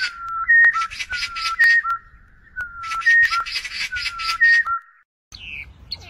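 An oriole at its nest, with begging nestlings: a fluty whistled phrase of gliding notes over a rapid run of high chirps, repeated twice. It stops about five seconds in, and other short high bird chirps follow.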